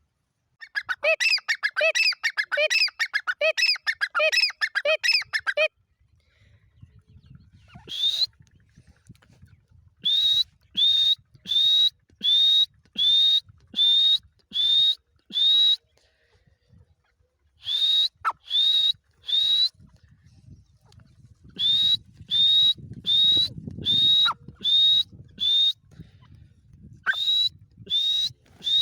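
Dakhni teetar (a francolin partridge) calling. It opens with a fast, harsh chattering run of about five seconds, then gives bouts of short, sharp notes that each rise in pitch, about one and a half a second, with pauses between bouts.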